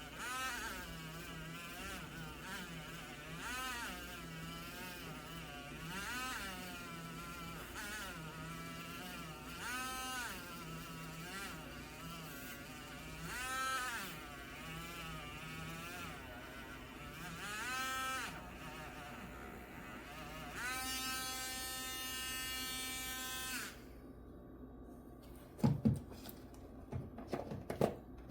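Small handheld electric power tool's motor buzzing, its pitch dipping and recovering every couple of seconds as it works, then running at a steady speed and switching off about 24 seconds in. A few sharp knocks follow near the end.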